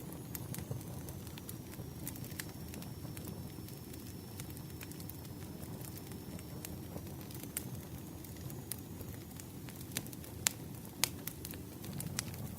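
Campfire burning: a steady low rush of flames with scattered sharp crackles and pops from the wood, a few louder pops near the end. A faint, thin high whistle runs through much of it.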